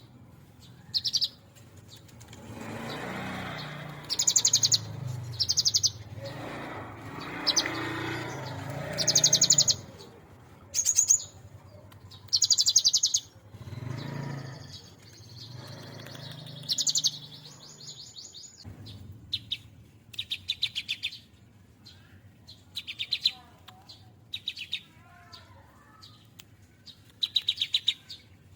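A cinereous tit (gelatik batu) singing: short bursts of rapid, high repeated notes, each under a second long, coming again and again, and more closely spaced in the last third.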